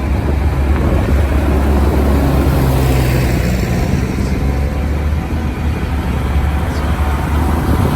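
Tractor engines running on the road, a steady low rumble.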